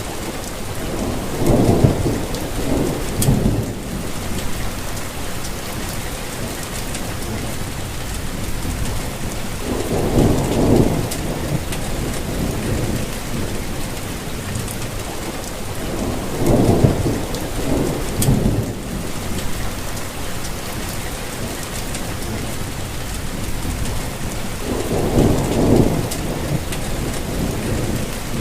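Steady rainfall, with four low rumbles of thunder, each lasting a couple of seconds.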